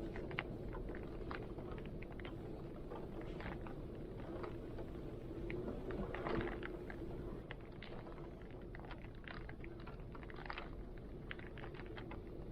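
Rain and strong wind: a steady low rumble of wind with many scattered drops tapping irregularly over it, and a brief swell about six seconds in.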